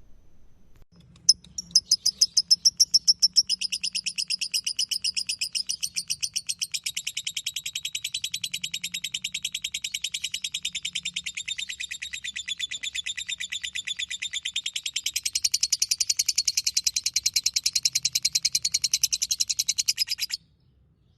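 Lovebird singing its 'ngekek': one long, unbroken chatter of very fast repeated high notes lasting nearly twenty seconds. It opens with a few separate loud notes and cuts off suddenly near the end.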